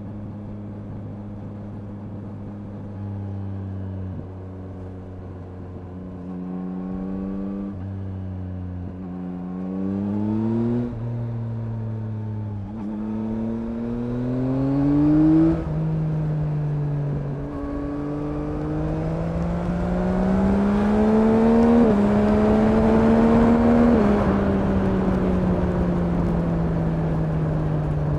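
2021 Yamaha MT-09's 890 cc CP3 inline-three engine and exhaust under hard acceleration through the gears: after a few seconds at steady low revs, the pitch climbs in stages with a quick dip at each upshift, then falls away steadily as the throttle is closed. Wind noise rises with speed.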